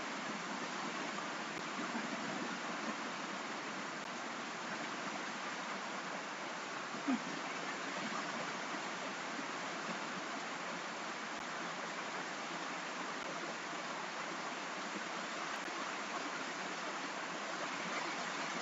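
Steady rain noise: an even hiss without distinct drops. A single short faint blip sounds about seven seconds in.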